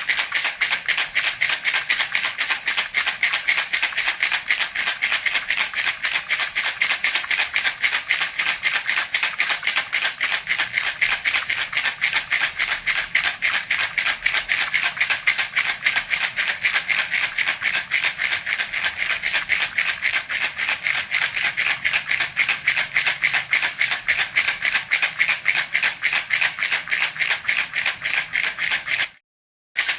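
Baby rattle (jhunjhuna) shaken quickly and evenly, a dense, bright rattling. It breaks off for about half a second near the end, then resumes.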